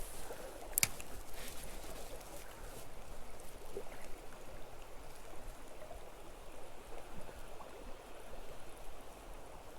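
Small creek running, a steady rush of water, with a sharp click about a second in.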